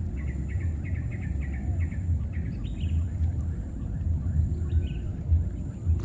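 Small birds chirping: a quick run of short high chirps in the first two seconds, then a few scattered calls, over a steady low rumble.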